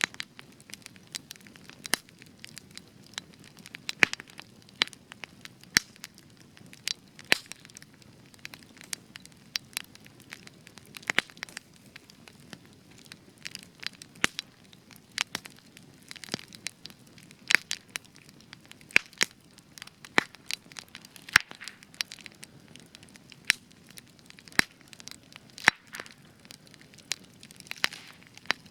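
Spruce wood burning in a campfire, crackling with irregular sharp pops and snaps of varying loudness over a faint low hiss of the flames.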